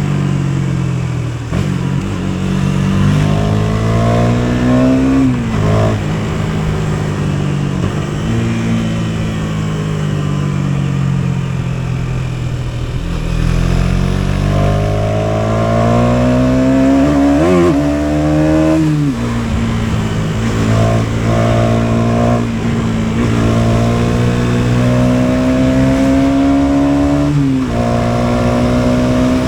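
KTM Duke 250's single-cylinder engine under way, its note climbing in pitch and dropping at each gear change. Partway through it winds down for several seconds as the bike slows, then pulls up through the gears again with several shifts in the second half.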